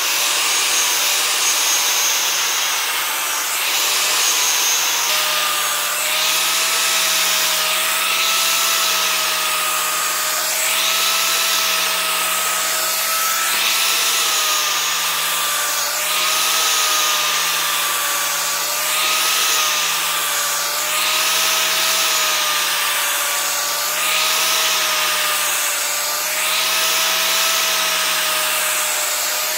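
Electric grinding tool running steadily, its motor tone wavering slightly under load, as a steel blade is pressed against the abrasive in repeated passes. Each pass is a rasping hiss about every two seconds.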